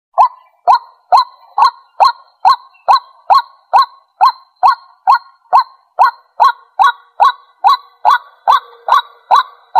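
White-breasted waterhen calling: a fast, even series of short notes, about two a second. It is a recorded call played to lure waterhens in.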